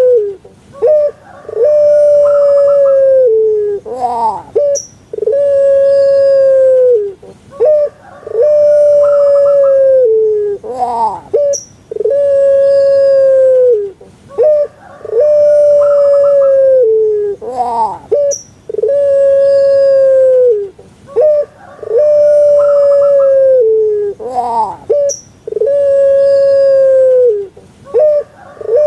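Puter pelung dove (Streptopelia risoria) giving its long cooing call over and over, about every three and a half seconds. Each call has a few short notes and a rising note, then ends in a long, loud, held hoot that falls slightly at the end.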